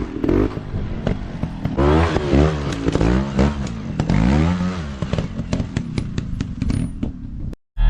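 Dirt bike engines revving up and down in repeated throttle blips, with clattering knocks in the second half. The sound cuts off abruptly near the end.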